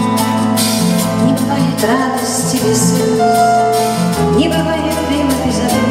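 Pop band music in an instrumental passage: a steady drum beat with a moving bass line and sustained chords, and a wavering melody line entering about two seconds in.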